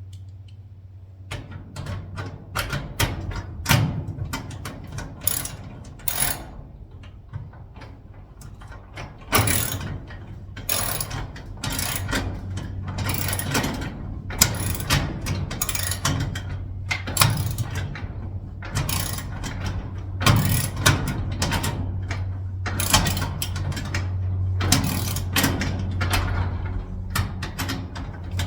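Screws being driven by hand with a ratcheting tool: repeated short bouts of ratchet clicking, starting about two seconds in, over a steady low hum.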